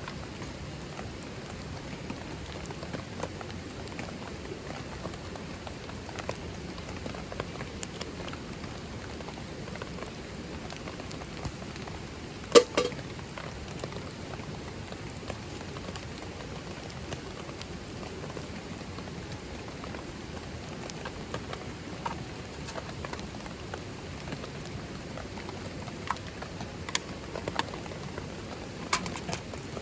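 Steady rain falling, with scattered drop ticks and small crackles. A single sharp, loud crack comes about halfway through.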